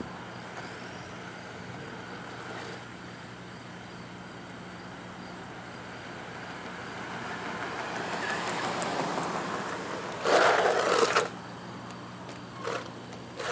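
A car driving past on the road, its noise swelling over several seconds and peaking in a loud rush about ten seconds in, over a steady low hum.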